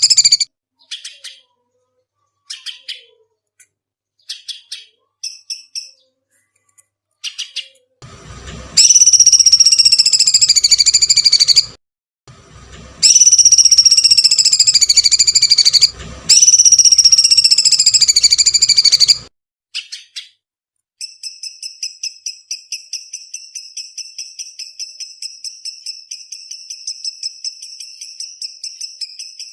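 Songbird calls: a few short scattered chips, then three loud, harsh, screeching calls of about three seconds each that fall in pitch, followed by a fast, even run of chips at one steady pitch.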